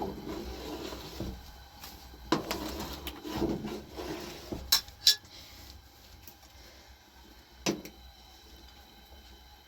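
Dishes and utensils knocking and clinking in a few separate strikes, with two sharp clinks close together about five seconds in and another near eight seconds.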